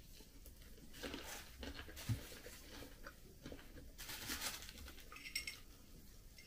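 Faint, close-up chewing and mouth noises of a person eating, coming in short irregular bursts.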